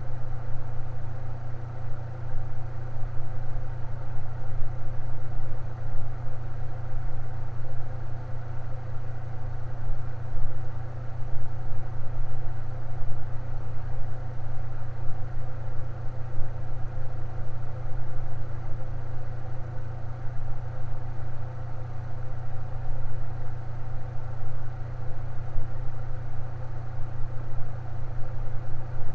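Electric fan running steadily: a constant low motor hum with a whir of air over it, no change in speed.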